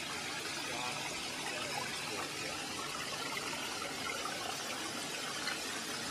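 Running water rushing steadily, like a creek or small waterfall.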